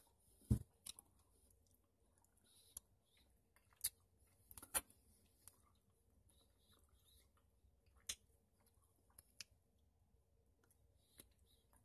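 Faint chewing of red licorice by a denture wearer: mostly quiet mouth sounds broken by about nine irregular sharp clicks, the strongest about half a second in and near five seconds.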